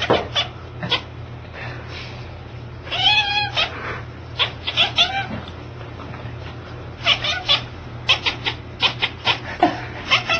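Cat chattering in quick runs of short, clipped calls, with a longer drawn-out meow about three seconds in and another about five seconds in.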